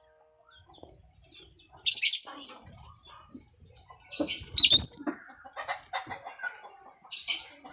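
African lovebird giving shrill, high-pitched screeches: one about two seconds in, a quick double call around four and a half seconds, and one near the end.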